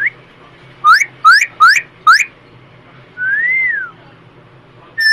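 Pet hill myna whistling: four quick, loud rising whistles, then one longer whistle that rises and falls, and another loud whistle near the end.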